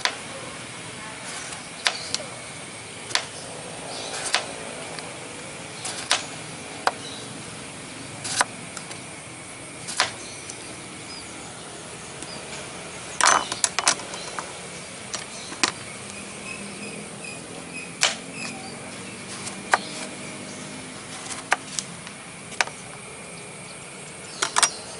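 A freshly sharpened kitchen knife being tested by cutting: irregular sharp clicks and knocks, about one every second or two, with a quick cluster about halfway through, over a steady background hiss.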